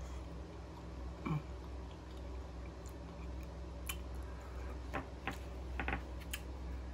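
Close-miked chewing of a mouthful of mashed potatoes, with a few soft, wet mouth clicks and smacks scattered through it, over a steady low background hum.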